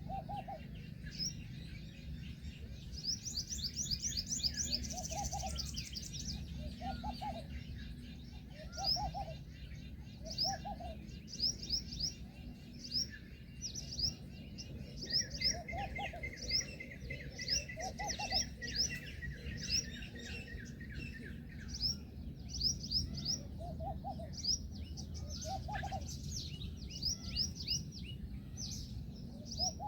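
Several birds calling together: many quick, high chirps, mixed with short low calls repeated every second or two, over a steady low rumble. A thin high note holds for several seconds about halfway through.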